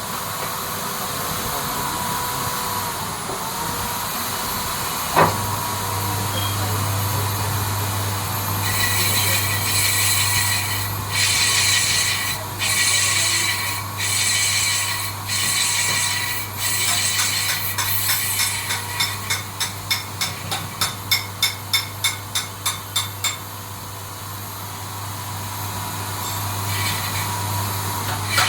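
Workshop lathe for brake drums: its motor switches on with a click about five seconds in and hums steadily, with bursts of harsh scraping noise of metal being cut, then a run of quick sharp ticks at about three a second.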